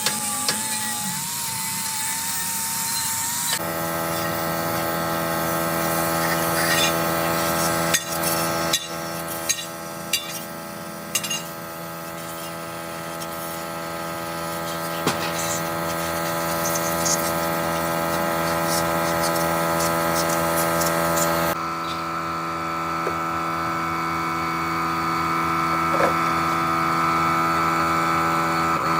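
Power tools or machine tools running in a workshop: a steady pitched hum that changes abruptly twice, with a few sharp metal clicks and taps between about eight and eleven seconds in.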